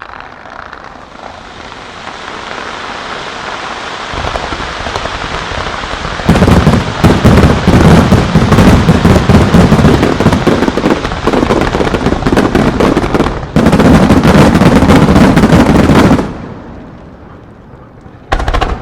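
Fireworks barrage: a dense crackling hiss that builds, then a rapid, continuous run of shell bursts and crackle from about six seconds in to about sixteen seconds. It dies away after that, and one more short burst comes near the end.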